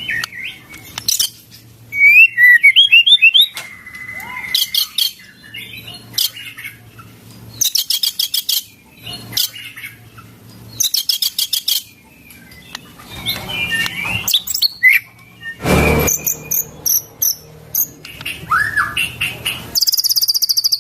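White-rumped shama (murai batu) singing a varied song of whistles and glides, broken by fast rattling runs of repeated notes (ketrekan) and a fast high trill near the end, its repertoire filled with imitations of cililin song. A loud, brief, harsh burst of noise comes about three quarters of the way through.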